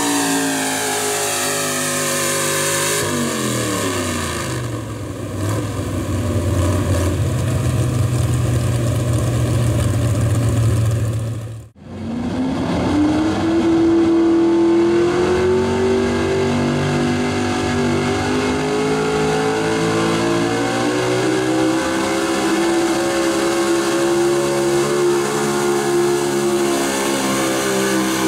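Gasoline V8 engines of 4x4 pulling trucks at high rpm. In the first few seconds the engine's pitch falls as it comes off the throttle. A sudden cut about halfway through is followed by another run, where the engine climbs and then holds a high, steady scream under full load.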